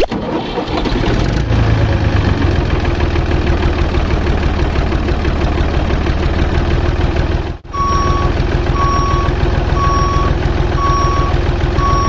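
Diesel tractor engine running with a fast, even chug. After a brief break a little past halfway, a reversing alarm beeps about once a second over the engine.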